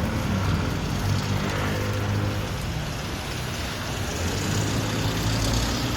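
Steady low rumble of a motor running, with a hum.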